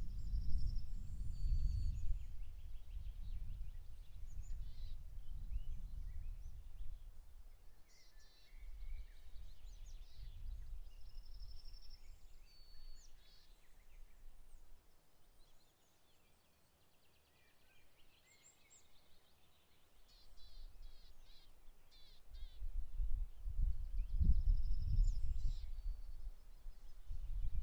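Several songbirds singing: short whistles, chirps and trills overlapping throughout. Under them, gusts of wind rumble on the microphone; they ease off in the middle and pick up again near the end.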